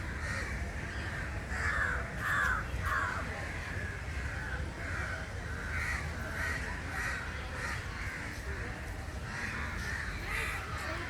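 Birds calling over and over, short calls following one another about every half second, loudest about two to three seconds in, over a steady low rumble.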